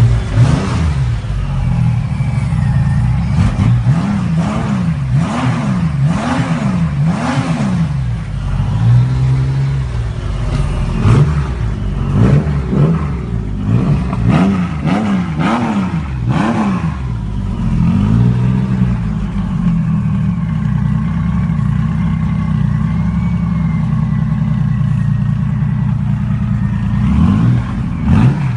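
Motorcycle engine revved repeatedly in quick rises and falls of pitch for about the first seventeen seconds, then settling into a steady idle.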